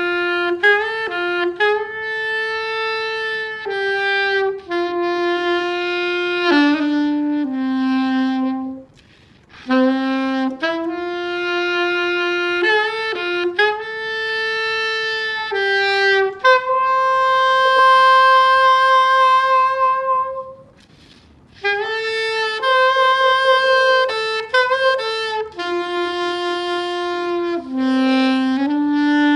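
Solo saxophone playing a slow melody in phrases of held notes, with one long note held with vibrato midway and two brief pauses for breath.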